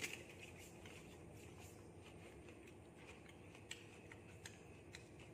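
Near silence with faint, scattered soft clicks of a person chewing food and handling chopsticks, one sharper click right at the start.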